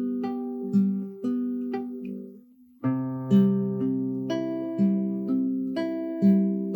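Background music: slow plucked guitar notes and chords, each ringing out and fading, with a short break about two and a half seconds in before the playing resumes.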